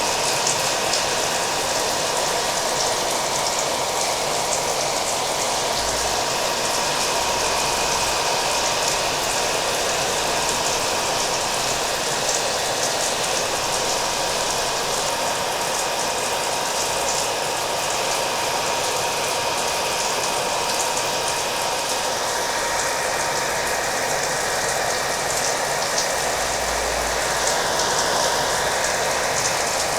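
Hair dryer running steadily with a constant whine, mixed with the even hiss and patter of falling rain.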